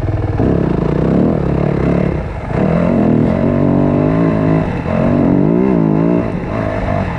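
Motocross bike engine revving up and down as it is ridden hard, the pitch rising and falling, easing off briefly about two and a half seconds in and again near five seconds.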